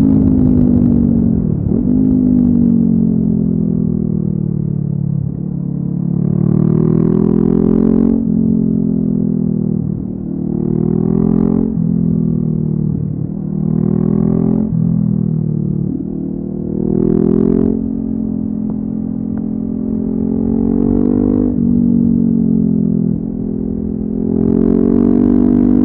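Honda CB500F's parallel-twin engine through a LeoVince aftermarket exhaust under hard riding: the revs climb and fall over and over, each climb broken off by a sudden drop in pitch, about a dozen times.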